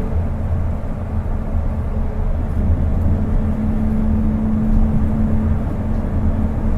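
Cabin running noise of a Kobe New Transit 2020 series automated guideway train on rubber tyres: a steady low rumble with a constant hum, as the train runs between stations.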